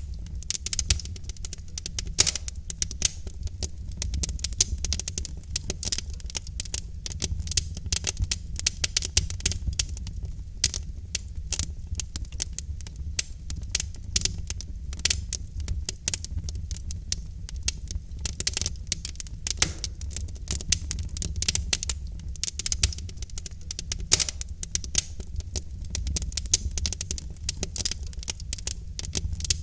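Wood fire in a fireplace crackling and popping: dense, irregular snaps from burning logs over a low, steady rumble of the flames.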